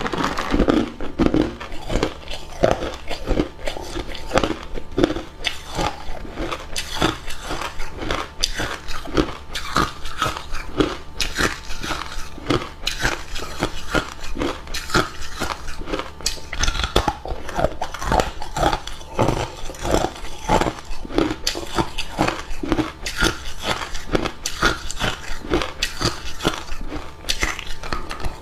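Hard cube ice being bitten and chewed, a continuous rapid run of crisp crunches.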